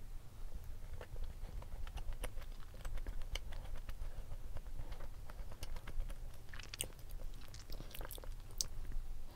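A person chewing a bite of Oreo brownie, soft and cheesecake-like inside: many small, irregular wet mouth clicks and smacks.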